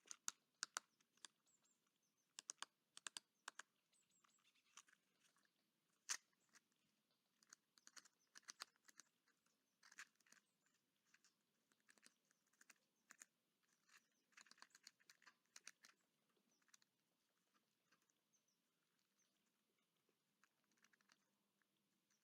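Faint, irregular sharp taps and clicks of a bird pecking near the microphone. They come in quick clusters, then thin out to a few scattered taps over the last several seconds.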